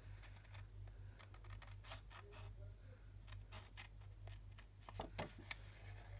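Scissors snipping through card to cut out a stamped image: a run of short, irregular snips, over a faint steady electrical hum.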